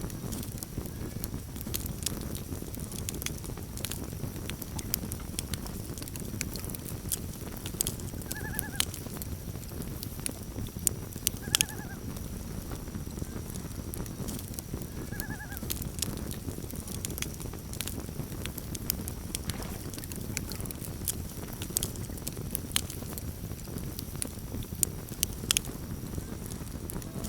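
Campfire burning with a steady low rumble and frequent sharp crackles and pops, while a common loon gives three short quavering calls, about two to four seconds apart, in the first half.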